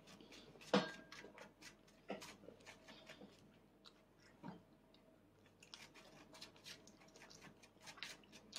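Faint, scattered clicks and smacks of a toddler chewing food in a quiet room, the clearest about a second in.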